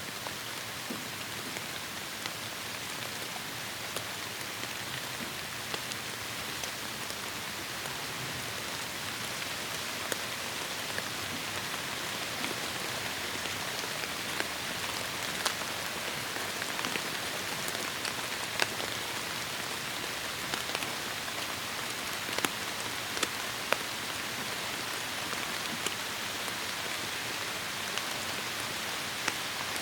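Heavy rain falling steadily on forest foliage: a dense even hiss with the sharp ticks of individual large drops scattered through it, growing slightly heavier partway through.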